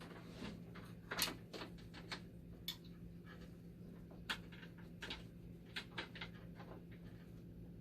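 Irregular light clicks and knocks of screws, ground wires and small metal parts being handled as they are removed from a dialysis machine's chassis, over a steady low hum.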